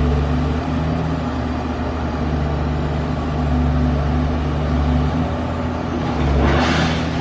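Heavy diesel excavator engines running steadily under load at a demolition site. A short, noisy burst of sound comes near the end.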